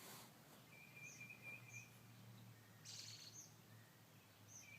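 Near silence with a faint bird trill about a second long, heard just under a second in and again near the end, and a few faint high chirps.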